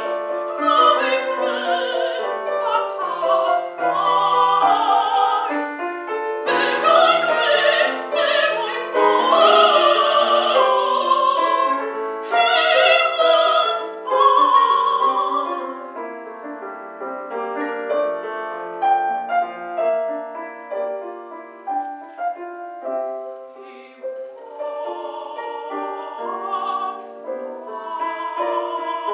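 Mezzo-soprano singing a classical art song with piano accompaniment, louder for roughly the first half and softer after.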